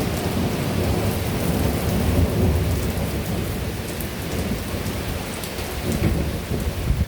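Heavy rain pouring down with rolling thunder. The low rumble swells about two seconds in and again near the end, then cuts off abruptly.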